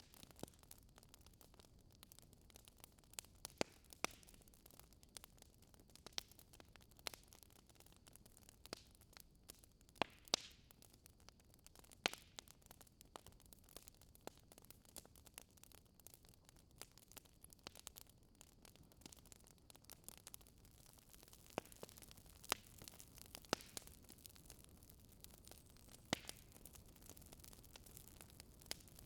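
Faint crackling fire in a fireplace: a low hiss with irregular sharp pops and snaps, a few of them louder.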